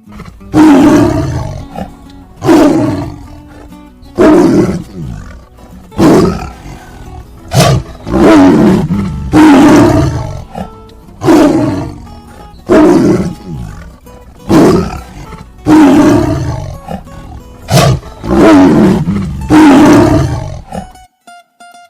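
Tiger roaring over and over: about a dozen loud roars, one every second and a half or so, each sliding down in pitch. They stop about a second before the end.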